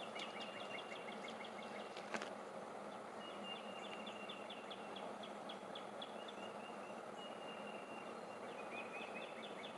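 Outdoor ambience with a high, rhythmic chirping call repeated in several runs of about five chirps a second, over a steady background hiss, and a single sharp click about two seconds in.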